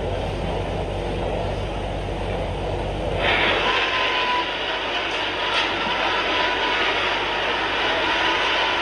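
Congregation praying aloud all at once, a dense roar of many overlapping voices that swells louder about three seconds in.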